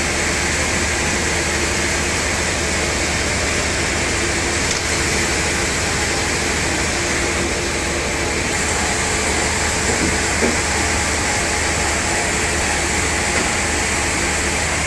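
Sawmill saw and its machinery running, a loud, steady mechanical noise with a constant low hum and no pauses.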